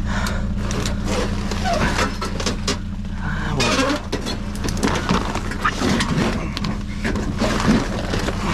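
Metal and debris knocking, scraping and squeaking as a dumpster is rummaged and a large piece of scrap metal is worked loose. A steady low hum of an idling vehicle engine runs underneath.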